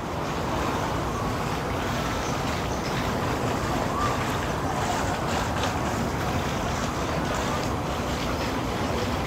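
Steady rushing outdoor noise, most likely wind on the microphone, with a few faint clicks.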